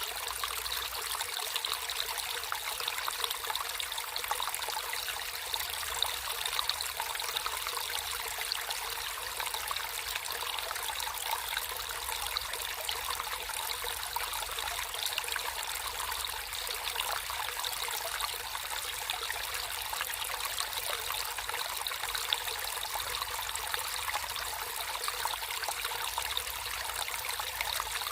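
Water flowing and trickling steadily in a small natural stream, an even splashing rush with fine bubbling detail.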